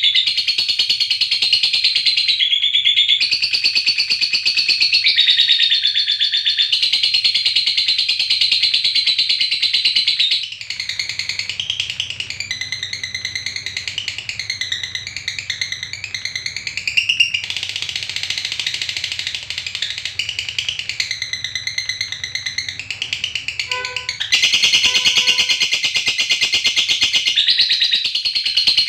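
Lovebird giving its long, unbroken rapid chattering trill (the 'ngekek panjang'), high-pitched. About ten seconds in it changes to a softer warble that swoops up and down in pitch, and the fast trill returns a few seconds before the end.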